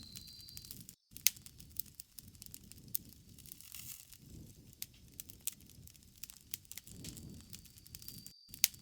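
Bonfire crackling, with frequent sharp pops over the low rush of the burning wood. A steady high insect trill, likely a cricket, stops early and returns near the end, and the sound cuts out briefly twice.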